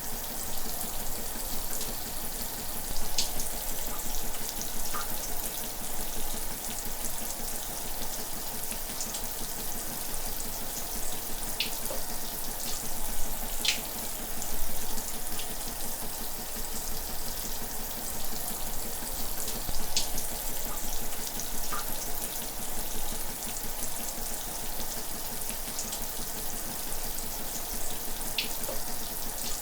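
Shower water running steadily: an even hiss of spray falling, with a few brief sharper splashes standing out now and then.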